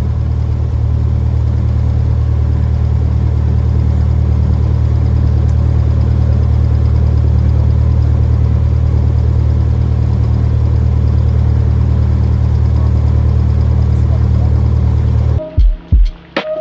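Cessna 172's piston engine and propeller droning steadily, heard inside the cabin. The drone cuts off abruptly near the end, replaced by music with sharp drum hits.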